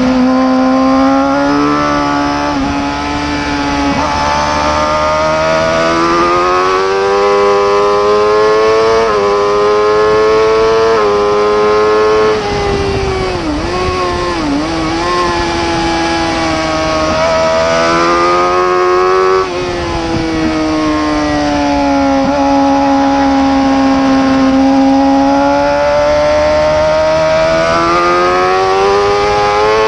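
Superbike racing engine at high revs, its pitch climbing and dropping back repeatedly in the first dozen seconds as it accelerates through the gears. A little before halfway the throttle closes, with quick wavering dips in pitch during braking. It then pulls hard again, shuts off once more, and holds a long steady, slowly bending note.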